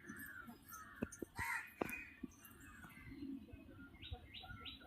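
Faint bird calls, with a few sharp clicks in the first two seconds. Near the end a rapid series of short, falling chirps starts, about four a second.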